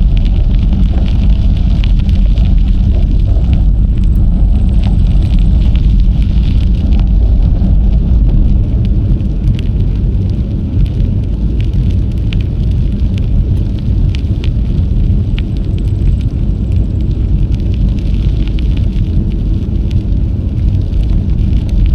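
Wind buffeting the action camera's microphone during a bike ride: a loud, steady low rumble, with a hiss of rolling tyres and scattered light ticks and rattles from the bicycle.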